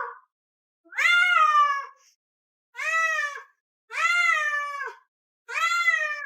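A domestic cat meowing over and over: four long, loud meows about a second apart, each rising and then falling in pitch.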